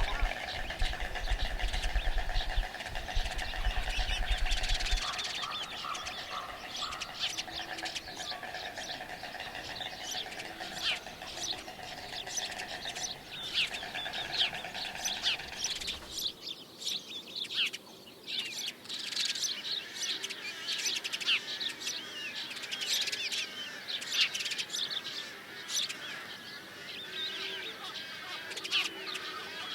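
Many small birds chirping and calling at once, a dense chorus of short, high chirps. A steady buzzing trill runs underneath for the first half and then stops.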